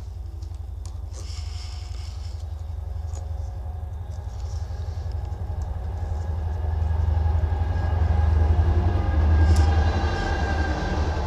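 Freight train passing, a deep low rumble that grows steadily louder and peaks near the end. A few light clicks come through about a second or two in.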